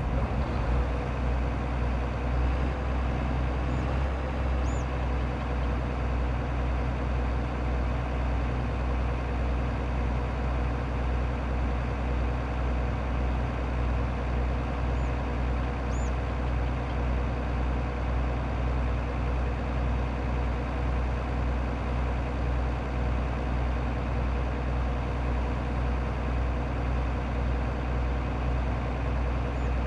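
Tractor engine running steadily under load with an even, unchanging low drone, as when pulling a plow.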